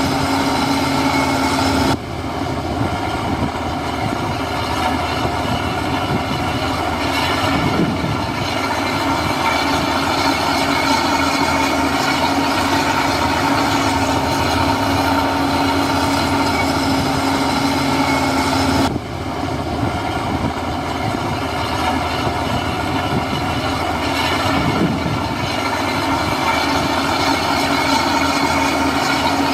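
Heavy diesel construction machinery running steadily at work, engine noise with a steady whine over it. The sound drops abruptly about two seconds in and again past the middle, then carries on.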